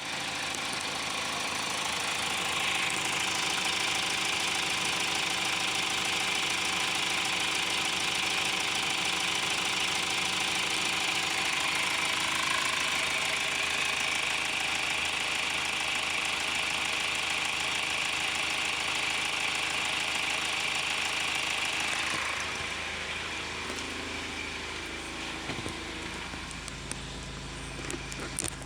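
The Mazda CX-5's 2.2-litre four-cylinder turbo diesel idling steadily, with a hissy clatter over a low hum. About three-quarters of the way through, the hiss fades and the sound turns quieter and lower, with a few clicks near the end.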